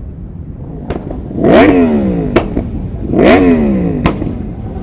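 Motorcycle engine revved twice, each throttle blip climbing quickly and then falling away, with a sharp crack at the end of each rev, over the rumble of other bikes running.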